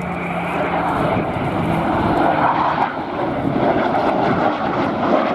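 Spitfire and Eurofighter Typhoon flying in formation, their engines making a dense, wavering noise that grows louder as they pass.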